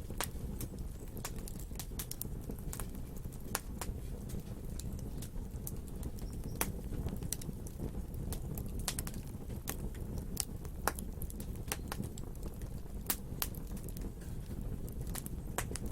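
Wood fire burning with irregular sharp crackles and pops, sometimes several a second, over a steady low-pitched background of flame.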